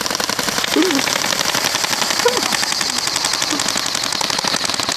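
Airsoft guns firing on full auto: a fast, continuous clatter of many overlapping shots.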